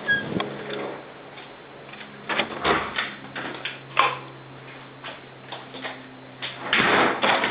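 Scattered footsteps, knocks and clicks over a low steady hum, with a short rush of noise about seven seconds in.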